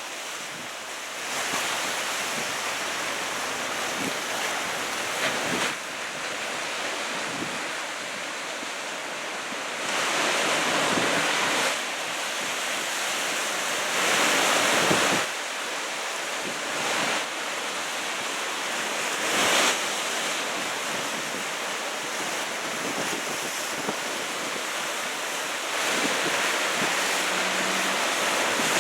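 Heavy typhoon swell breaking, the surf rushing in a steady roar that swells several times as waves crash, with wind buffeting the microphone.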